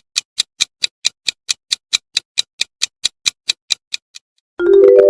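Countdown-timer clock sound effect ticking quickly, about four to five ticks a second, stopping about four seconds in. Just after it, a bright mallet-percussion chime of notes stepping upward rings out, marking time's up.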